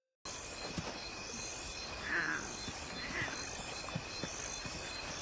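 Natural night ambience: a steady chorus of insects with a higher pulsing trill that repeats about once a second. It starts suddenly just after the start, with a short louder animal call about two seconds in and a fainter one about a second later.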